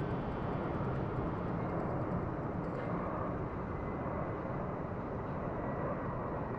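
Steady low rumble of outdoor background noise, even and unchanging, with no distinct events.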